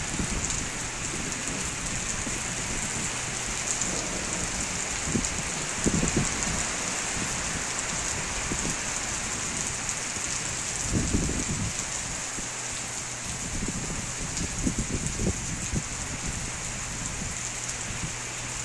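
Steady rain falling on trees and the ground, an even hiss, with a few brief low rumbles about six, eleven and fifteen seconds in.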